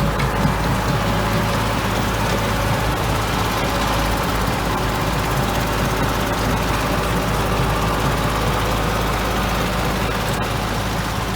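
Motor vehicle engine running steadily, a constant low hum with even noise over it.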